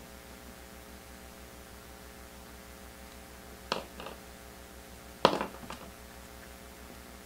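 Handling noise at the table: two sharp taps, each followed by a lighter one, the second pair louder, over a steady electrical hum.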